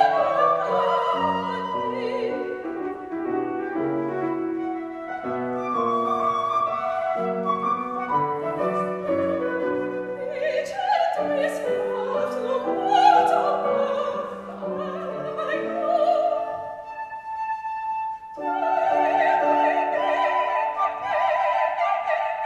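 Baroque aria played live by soprano, flute and piano: steady piano notes under a high ornamented melody, ending in a long held high note about three-quarters of the way through.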